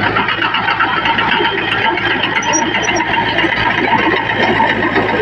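Diesel engine of heavy earthmoving machinery running steadily, with a constant low hum under it.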